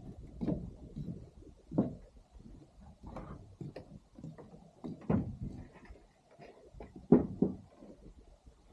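Irregular soft thumps and knocks over a low rumble, the loudest about two, five and seven seconds in.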